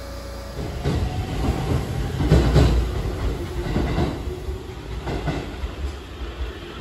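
Aichi Loop Railway electric train running along the track, its wheels rumbling and clattering over the rail joints. It is loudest about two and a half seconds in and eases off near the end.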